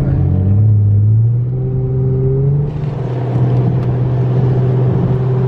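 Car engine accelerating: its drone climbs in pitch for the first couple of seconds, eases back about halfway in, then holds steady at cruise.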